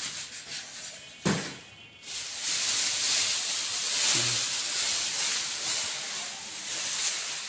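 A knock, then a steady hiss that sets in about two seconds in and keeps on evenly.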